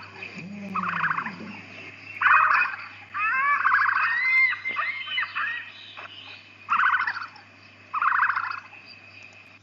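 A large bird calling repeatedly: about seven short rattling bursts, with higher chirping glides in the middle of the run.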